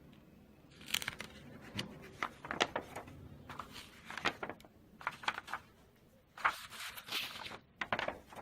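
Paper pages of an old book being handled and turned: irregular rustling and crinkling with sharp little flicks and clicks.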